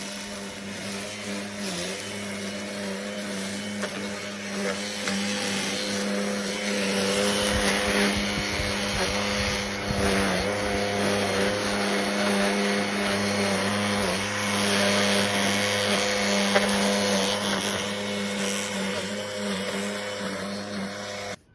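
A small motor-driven machine running steadily, a loud whirr over a constant hum, starting and cutting off abruptly.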